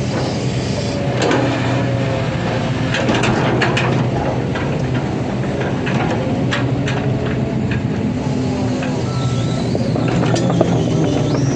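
Hydraulic excavator's diesel engine running steadily, with repeated metallic clanks and knocks and a faint hydraulic whine that rises and falls.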